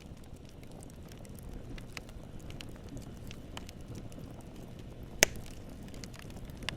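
Campfire burning with a low steady rumble of flames and wood crackling in scattered small pops, one loud sharp crack a little after five seconds in.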